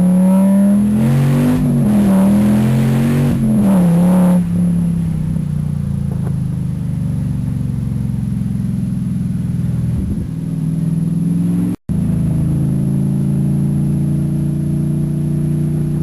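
2004 Pontiac GTO's 5.7-litre LS1 V8, breathing through JBA short headers and stock catalytic converters, revved up and down a few times, then settling to a steady idle about four seconds in. The sound cuts out for an instant near the twelve-second mark.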